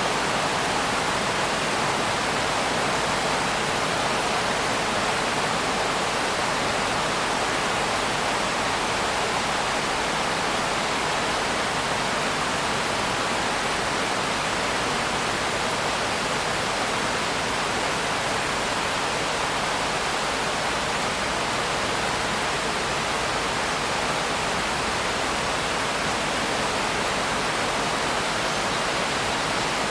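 Steady rain: a constant, even hiss that does not change.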